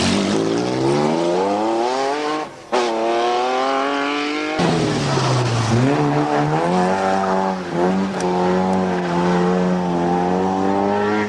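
Rally car engines revving hard as the cars accelerate away from a hairpin, the pitch climbing in repeated sweeps as they pull through the gears. About four and a half seconds in, the sound switches abruptly to a second car's engine.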